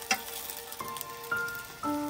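French toast frying in butter in a pan, sizzling, while the slices are turned with a metal knife and fork; a sharp clink of a utensil on the pan about a tenth of a second in.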